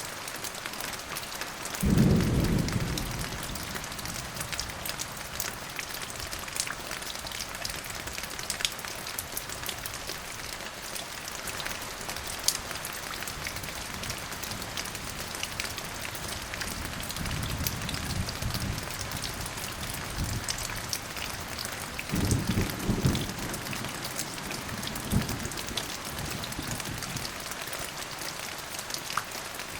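Steady rain falling, with thunder: a sudden low clap about two seconds in that rumbles away, a softer rolling rumble later, and another clap with rumble about three-quarters of the way through.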